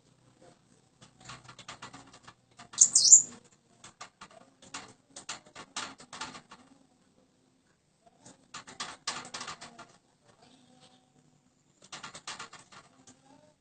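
Small pet songbird moving about, fluttering and hopping in three bursts of quick clicks and rustles, with one short, sharp, high call about three seconds in.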